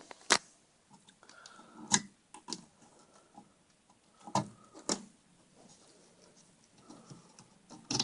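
Plastic wire connectors being unclipped and pulled off an LCD TV's power board: a handful of sharp clicks and knocks a second or two apart, with faint handling noise between them.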